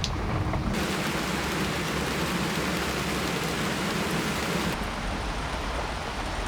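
Heavy rain falling, a steady hiss that grows much louder and brighter from about a second in, then drops back to a duller, lower patter near five seconds.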